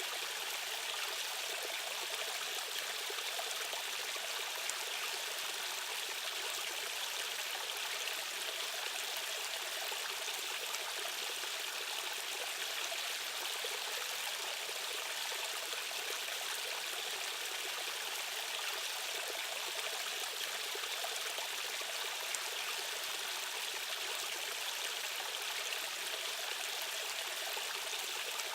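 Rushing water of a flowing stream current: a steady, unbroken rush with a bright hiss and little deep rumble.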